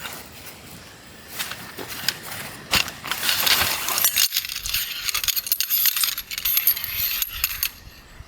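Metal tent stakes clinking and rattling against each other, with rustling, for about four seconds in the middle, after a single knock.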